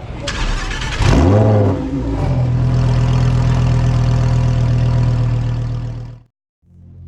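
A Lamborghini supercar engine starting: brief cranking, then it catches about a second in with a loud rev flare that rises and falls. It settles into a steady, fast idle that cuts off suddenly near the end.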